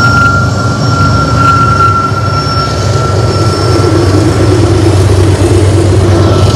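BNSF diesel-electric locomotives passing close by under power: a loud, steady, heavy engine rumble with a thin high whine over it, followed by the rolling rumble of the first freight cars going past.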